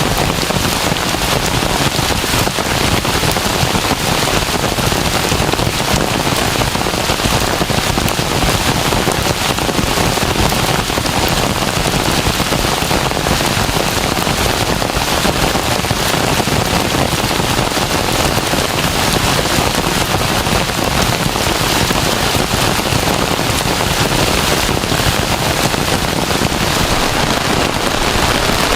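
Heavy rain falling: a loud, steady, dense patter of drops with no let-up.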